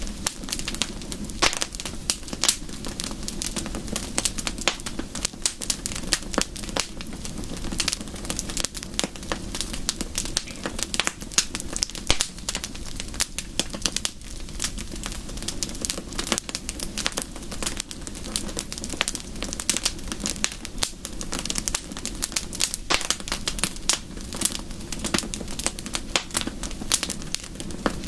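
Wood fire crackling: many irregular sharp snaps and pops over a low steady rumble.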